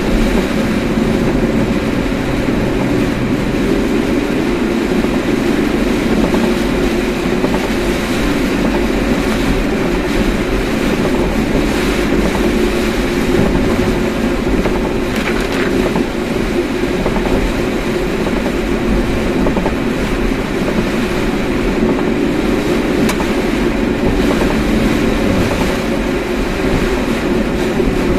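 Steady road and engine noise heard inside a moving car, a constant low rumble with no letup.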